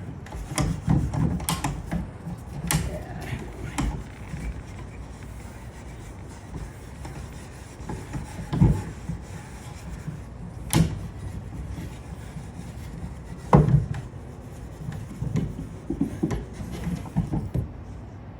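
Hand rubbing strokes on a finished wooden furniture surface as a refinisher is worked into the worn finish, in irregular bursts near the start and again near the end. A few sharp knocks in between, from the wood being handled.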